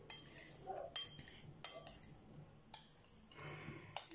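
Spoon clinking against a dish, five sharp clinks at irregular intervals about a second apart.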